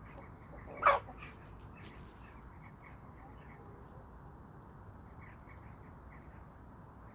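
Chickens making soft, quick, short clucking notes, with one loud brief squawk about a second in.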